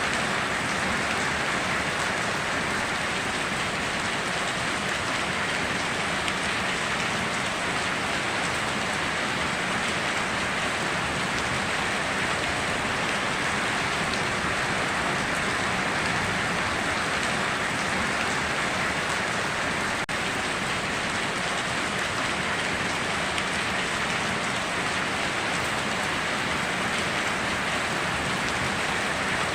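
Steady heavy rain falling on foliage and ground, an even hiss that does not change.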